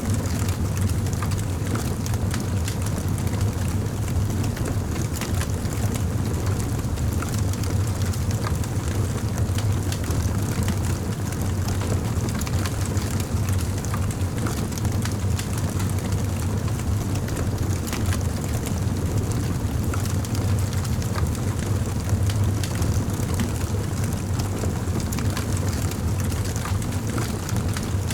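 Campfire burning: a steady low rumble of flames with frequent small crackles and pops of burning wood.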